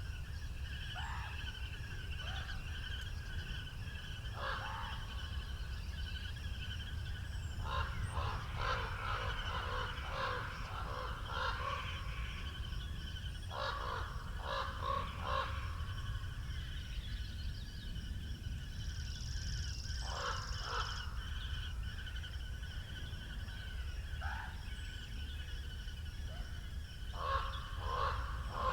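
Crows cawing in repeated bursts of several harsh caws, with single caws between. Steady wind rumble and other small birds calling sit underneath.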